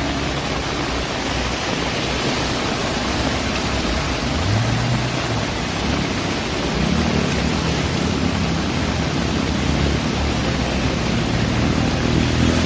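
Steady rushing noise of rain and water on a waterlogged street, with a vehicle engine coming up briefly about four seconds in and again in the second half, building toward the end.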